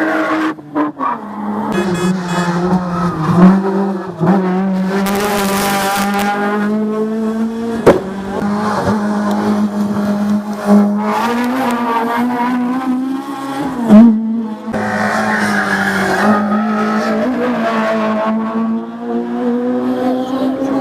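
Race car engine at high revs during a hill climb, holding a fairly steady pitch with small rises and dips, broken by three short sharp pops.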